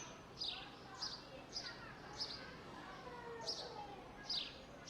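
A small bird repeating short, high, falling chirps, one every half-second to a second, over park background noise with faint distant voices.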